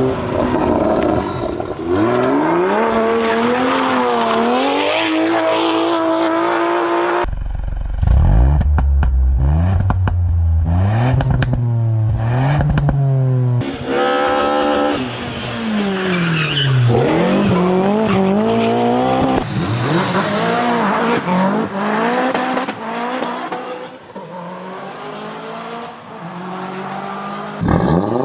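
A run of different car engines, one after another, each revving with its pitch climbing and falling. The sound changes abruptly to a new engine about every six to seven seconds; one of them, around a third of the way in, is much deeper than the rest.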